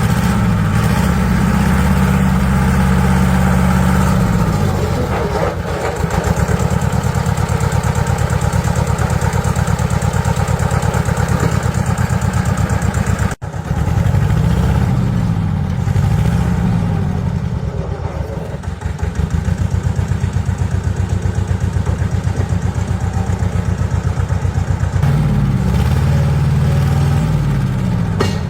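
Engine of a restored all-terrain vehicle running, its revs rising and falling several times. It breaks off abruptly about halfway through, then carries on.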